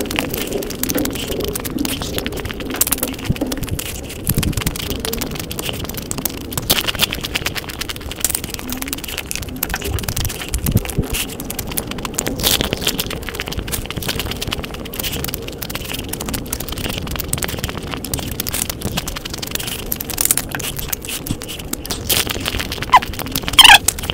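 Close-miked eating sounds: crisp sev and puffed puris crunching and being chewed, as a dense crackle of small clicks. A short, loud, high-pitched gliding sound comes near the end.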